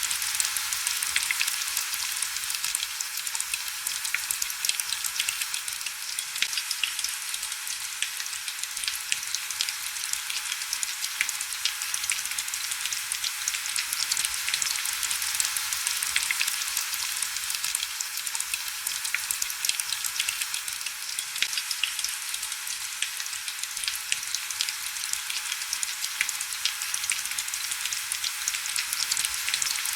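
Heavy rain falling steadily: a dense, even hiss full of fine drop ticks.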